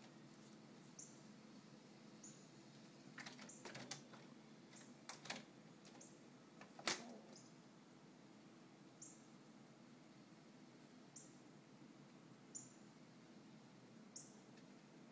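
Near-quiet room tone with faint, short, high chirps from small birds every second or two, and a few soft clicks and taps around the middle, the sharpest about seven seconds in.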